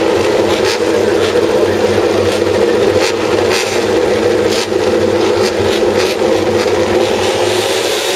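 MotoGP race motorcycles running on the warm-up lap, their engines blending into a steady drone, with brief sharp ticks now and then.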